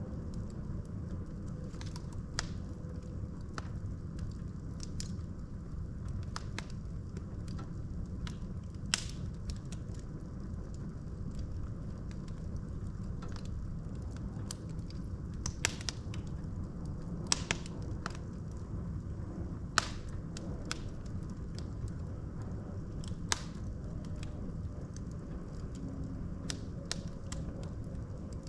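Logs burning in a fireplace: a steady low rumble of the fire with scattered sharp crackles and pops, a handful of them louder snaps.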